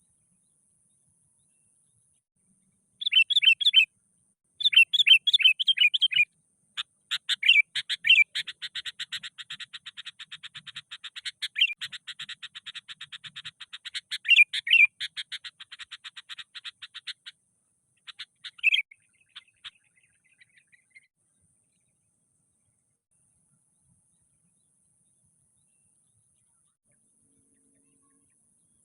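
Sooty-headed bulbul calling agitatedly. A few quick bursts of bubbling notes about three seconds in lead into a long, fast chattering run of about ten seconds, then one last call and a stretch of silence before it starts again at the very end. This is the excited, aggressive calling of a bulbul challenging a rival, the kind used as a lure.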